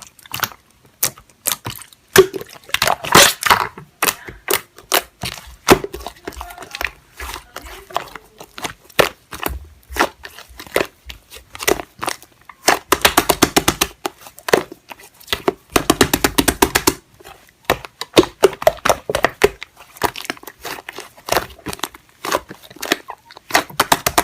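Slime being squeezed, folded and stretched by hand, making a dense, irregular run of sticky pops, clicks and crackles from trapped air.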